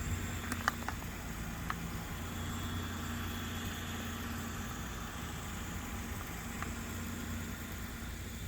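A steady low hum of a running engine or motor, with a few faint clicks in the first two seconds.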